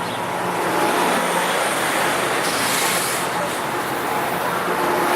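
Steady road-traffic noise with a low engine hum, and a brief hiss about two and a half seconds in.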